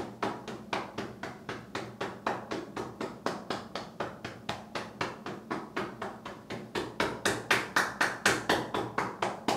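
Rhythmic percussive massage with the hands on the client's body, about four slaps a second, louder for the last couple of seconds.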